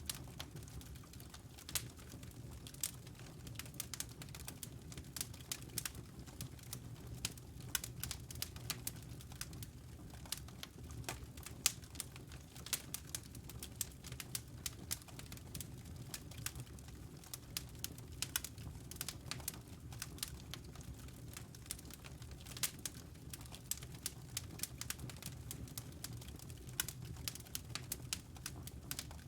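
Wood fire burning in a fireplace: irregular crackles and pops over a low, steady rumble of the flames.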